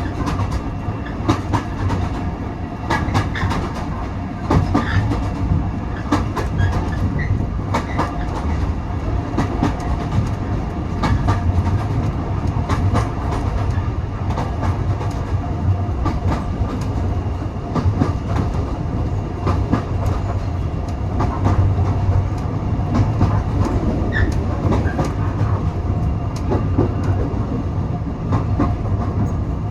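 A railway passenger coach on the move: a steady low rumble with frequent sharp clicks and knocks from the wheels running over the track.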